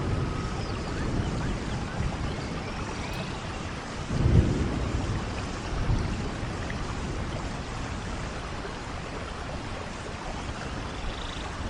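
Steady rain falling, with short low rumbles about four seconds in and again at about six seconds.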